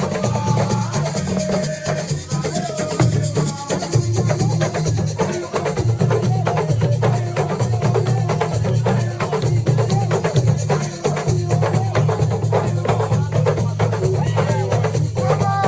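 Assiko band playing: fast, dense hand drumming and shaker rattle under voices singing a wavering melody.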